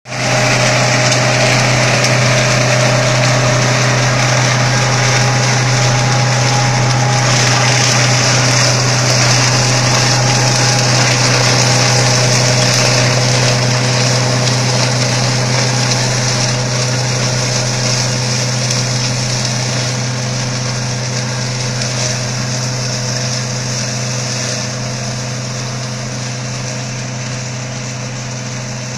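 Tractor engine running steadily with its rotary brush cutter driven, a continuous low hum under a loud whirring hiss. It eases off slightly over the last third.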